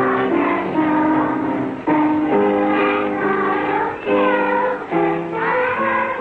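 A children's choir singing a song in held, sustained notes, in a muffled old recording.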